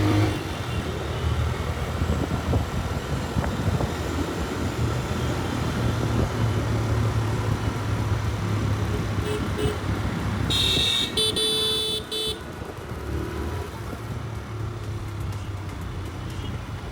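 Raider motorcycle's engine running steadily under way, with road and wind noise. A vehicle horn sounds for about two seconds just past the middle.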